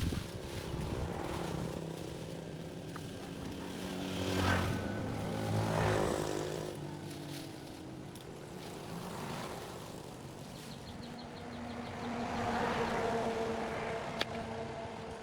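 Engine noise that swells and fades three times, loudest about four and a half, six and thirteen seconds in.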